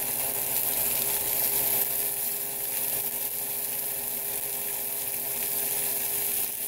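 Chicken and vegetable shish kabobs sizzling steadily in hot olive oil in a nonstick frying pan.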